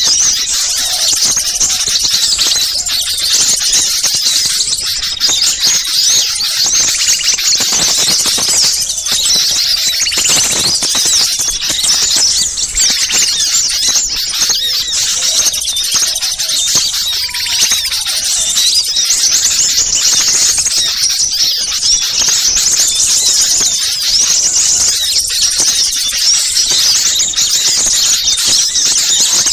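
A dense, continuous chorus of many small birds calling at once in rapid, high-pitched chirps and twitters. This is a bird-lure recording of agitated small birds, used to draw wild small birds in.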